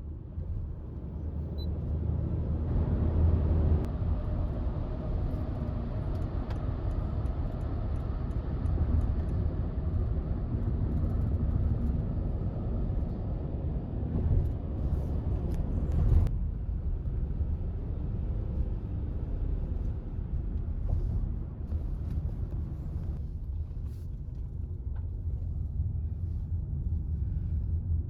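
A steady low rumble throughout, with a few faint clicks.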